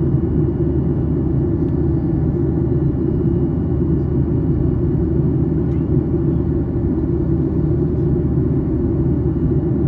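Steady low drone inside the cabin of a Boeing 737-800 in descent: the airflow and CFM56 engine noise heard from an economy seat, with a faint high whine above it.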